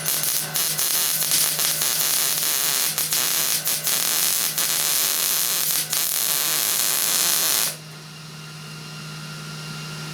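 Wire-feed welder laying a bead on a rusted rocker panel repair: a steady crackling sizzle peppered with sharp pops, which cuts off suddenly about eight seconds in, leaving a low steady hum.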